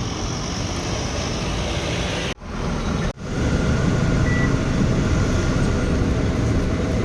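Loaded Tata Signa trailer truck running on a climb: a steady engine and road rumble, which drops out briefly twice a little over two and three seconds in. A short high beep sounds about four seconds in.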